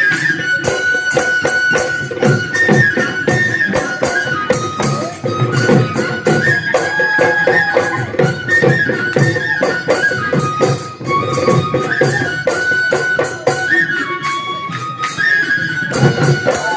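Bihu folk music: a piping wind-instrument melody over fast, steady drumming.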